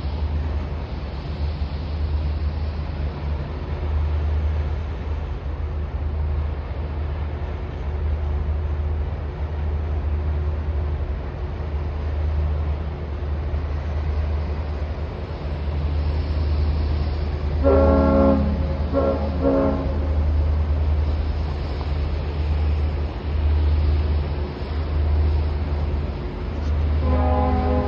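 Steady low rumble, with a loud horn sounding about two-thirds of the way through: one blast followed by a couple of short ones. Another pitched tone starts near the end.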